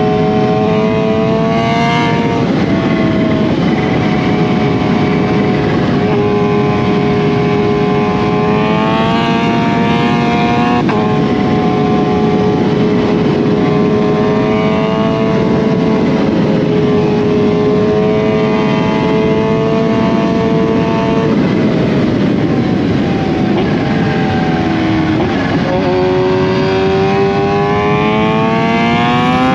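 2020 Kawasaki Z H2's supercharged inline-four running through an SC Project CRT exhaust under throttle on the road. The engine note climbs and then drops sharply at each upshift, about four times. Near the end it falls away as the rider eases off, then rises again under acceleration.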